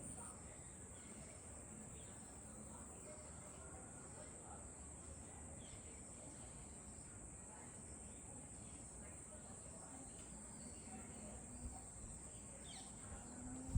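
Faint background noise with a steady high-pitched whine running throughout.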